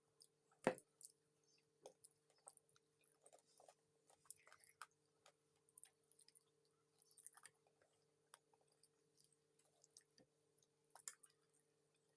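Someone chewing chicken feet close to the microphone: faint, irregular wet clicks and small crunches of the mouth, with one sharper click less than a second in.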